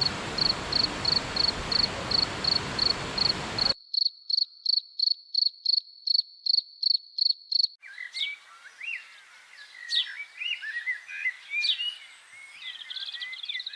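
An insect chirps in a steady high pulse, about four chirps a second, over a hiss that cuts off suddenly about four seconds in. About eight seconds in it gives way to birds singing and calling, with quick chirps and rising and falling whistles.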